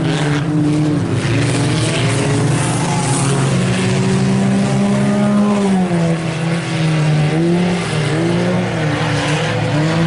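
A pack of IMCA Sport Compact race cars, four-cylinder compacts, racing together. Several engines can be heard at once, their pitch dipping as the drivers lift and rising again as they get back on the throttle.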